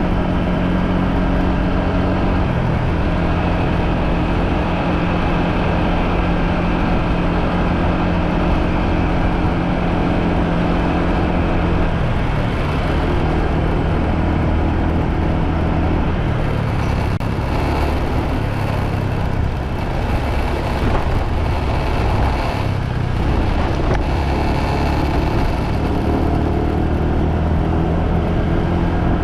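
Motorbike engine running steadily while riding, a level engine note for the first dozen seconds. Through the middle the note gives way to a louder rushing hiss, and the steady note returns near the end.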